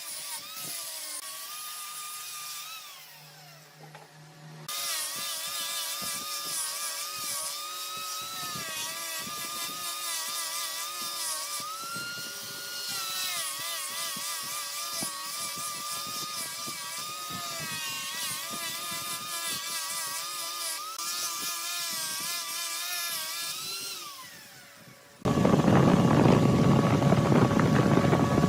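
Giant wood lathe turning a large log, with the cutting tool giving a high whine against the spinning wood whose pitch wavers and bends. About three seconds before the end it cuts abruptly to a louder, rougher machine noise.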